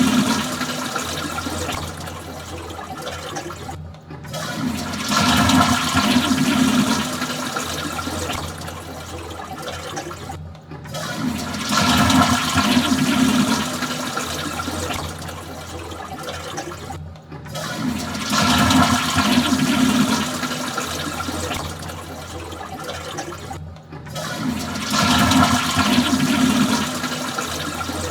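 Toilet flushing over and over, about every six and a half seconds: each flush starts with a loud rush of water that tapers off, with a brief gap before the next.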